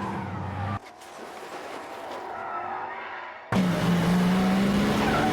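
Car engines running hard and tyres squealing in an edited car chase, with abrupt cuts. From about two-thirds of the way in, an engine holds a loud, steady note.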